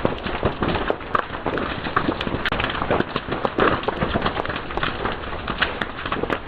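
Fire crackling and snapping: a dense, irregular run of sharp snaps and crackles over a steady hiss.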